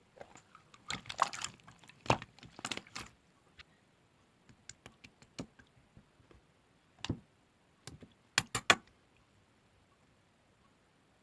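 Clear slime mixed with small coffee-themed charms being squeezed and pressed by hand, making irregular sharp clicks and pops. They come thickly in the first three seconds, sparsely after that, and there is a burst of loud pops around eight seconds in.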